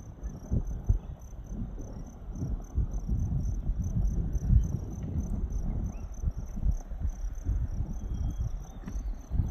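A hydrothermal feature gurgling, with irregular low bubbling pulses. Crickets chirp steadily in a high, evenly pulsing trill.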